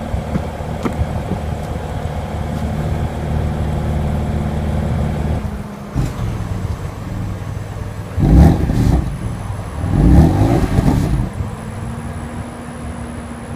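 BMW M4's twin-turbo inline-six idling steadily, then revved twice in quick loud blips of about a second each, then settling back to idle.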